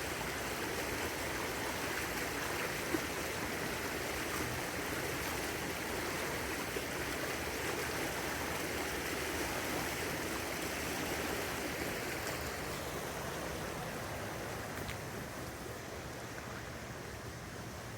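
Steady rush of flowing river water, fading a little toward the end.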